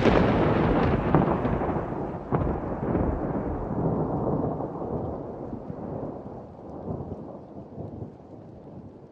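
Thunder rolling after a clap, with a few sharp cracks in the first couple of seconds, then a long rumble that fades away steadily.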